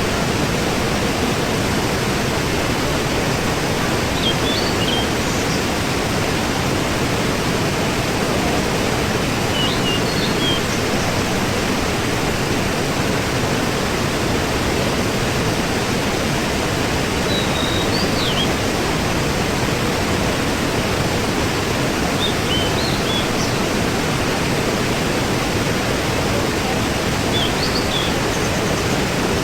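Waterfall rushing steadily, with short high chirps every few seconds.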